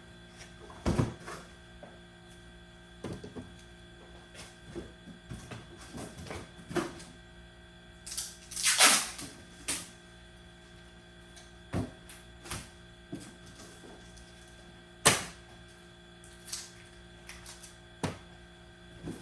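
Scattered knocks, clicks and clinks of tools and hardware being handled, with a longer rattling burst about nine seconds in, over a steady hum.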